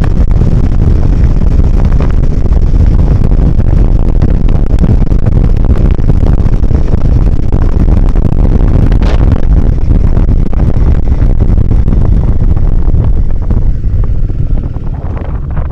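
Motorcycle riding along a trail, its engine running under heavy wind buffeting on the microphone. The noise eases somewhat near the end.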